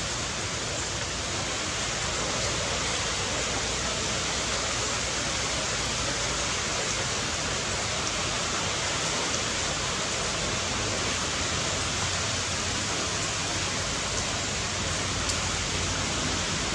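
Steady rain: an even, unbroken hiss, with a few faint drop ticks.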